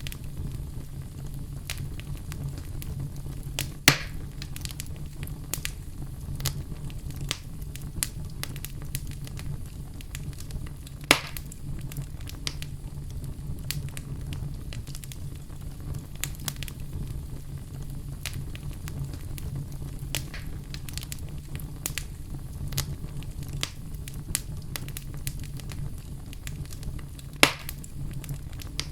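Fire crackling in a fireplace: a low steady rumble of flames under frequent small crackles, with three louder pops, about four seconds in, about eleven seconds in, and near the end.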